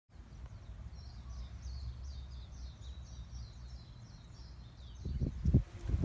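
A bird singing a quick twittering run of short, falling high chirps over a steady low rumble. Near the end the song stops and loud, irregular low thumps come in.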